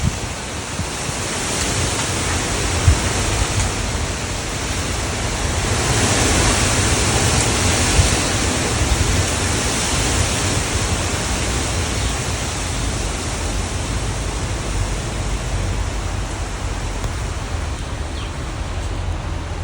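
Strong wind gusting through trees, a steady rushing hiss that swells for a few seconds in the middle, with wind buffeting the microphone in a low rumble.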